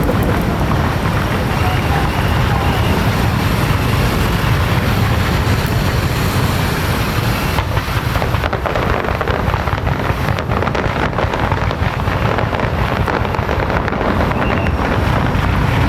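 Firecrackers crackling continuously in a dense, unbroken rattle, thickest about halfway through.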